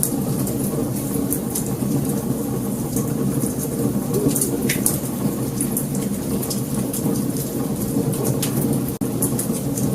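Wood fire burning: a steady low rumble of flames with scattered sharp crackles and pops. The sound drops out for an instant about nine seconds in.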